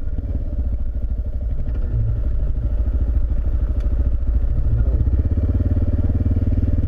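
Single-cylinder dual-sport motorcycle engine running under load on a dirt road, its firing pulses steady and the sound growing gradually louder as it pulls.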